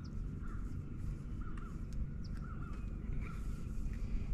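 A bird calling over and over in short notes, about two a second, over a steady low rumble.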